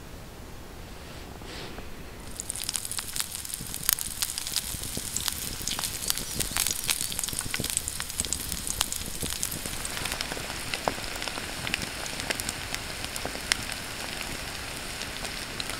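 Chicken pieces frying in a pan over a campfire, sizzling with many sharp pops and spits. The sizzling starts about two seconds in and goes on steadily.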